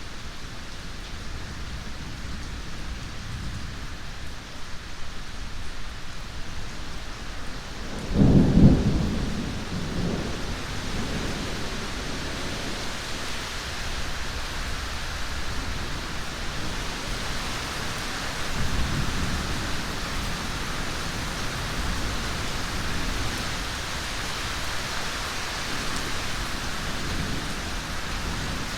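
Steady heavy rain with a clap of thunder about eight seconds in that rumbles on for a couple of seconds, and a fainter roll of thunder later.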